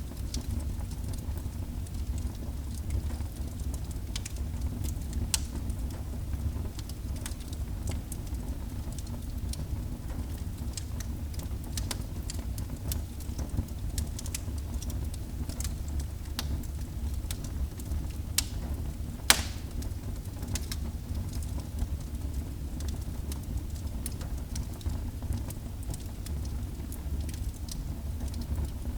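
Wood fire burning in a fireplace: a low steady rumble with frequent sharp crackles, and one louder pop about two-thirds of the way in.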